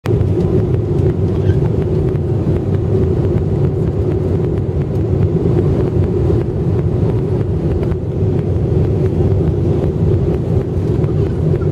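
Airliner cabin noise in flight: a steady, loud drone of engines and airflow with a constant hum over a low rumble.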